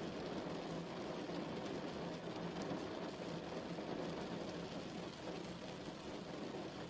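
Steady rain falling, a continuous even patter with a deep, low-pitched body to it.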